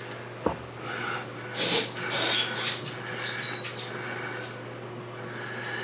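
A bathroom sink faucet's handle being worked after a new cartridge is fitted: a click, some scraping handling noise, then short high squeaks, one rising, as it turns. No water runs from the spout yet.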